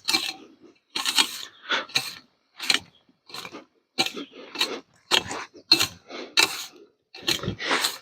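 Cordless hedge trimmer running in short bursts, about a dozen starts and stops with silent gaps between them.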